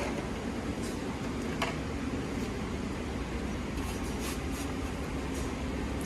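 Steady low workshop hum with a few light clicks and taps of hand tools during disassembly of a dirt bike.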